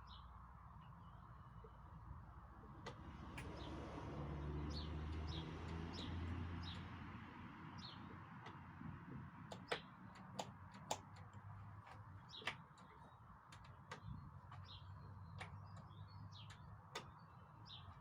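Small birds chirping over a quiet background hum. A low rumble swells and fades between about four and seven seconds in, and a few sharp clicks come in the second half.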